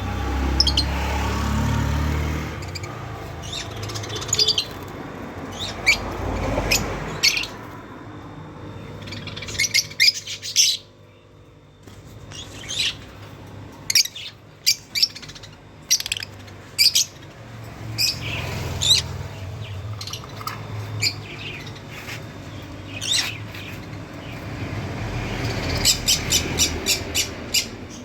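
Pet birds chirping, many short sharp calls overlapping, thickest in clusters near the end, over a low background rumble.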